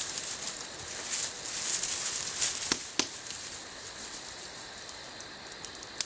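Jungle ambience sound effect: a high insect-like hiss with crackling and rustling, and two sharp clicks close together about three seconds in.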